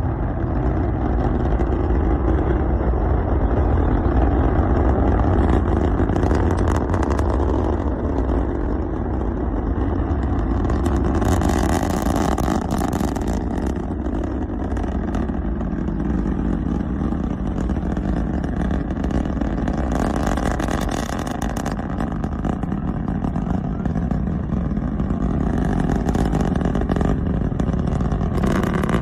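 Starship SN9's Raptor rocket engines running: a loud, steady rumble, heaviest in the deep bass, growing brighter and hissier twice along the way and cutting off suddenly at the end.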